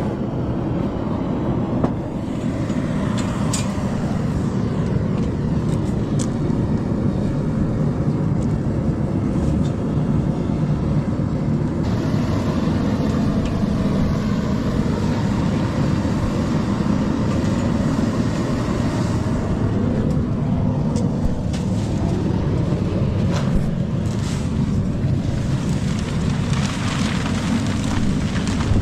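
Machinery running steadily and loudly, with a few short clicks and knocks now and then.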